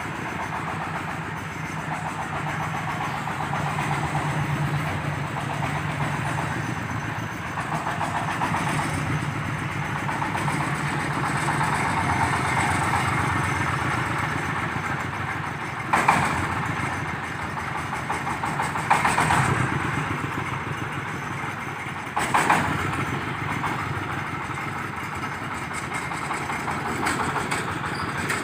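Engine-driven corn sheller running steadily, with a low hum under a dense mechanical clatter. Three sharp knocks come a few seconds apart in the second half.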